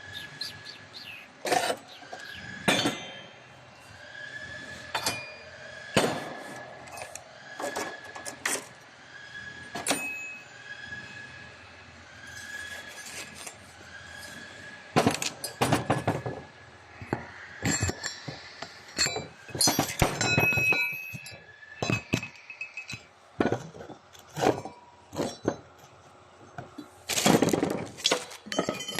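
Laser welding machine with a double wire feeder at work: sharp metallic clicks and clinks, with a short tone repeating about once a second for the first half. The clicks come thicker and louder in the second half.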